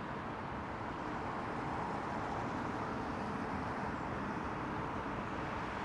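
Steady rushing noise of a jet airliner's engines, slightly louder after about a second.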